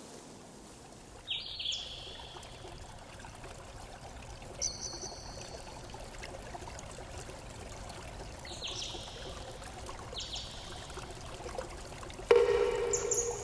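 Stream trickling and pouring steadily, with a few short, high bird chirps scattered through it. Near the end comes one louder, lower call lasting about a second.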